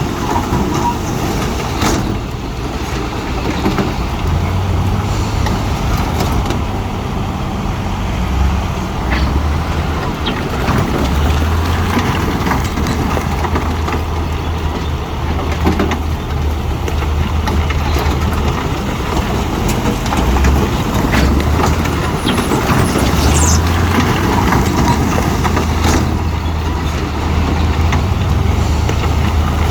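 Diesel engine of heavy earthmoving machinery running steadily, a constant low drone whose pitch shifts slightly as it works, with a few short knocks.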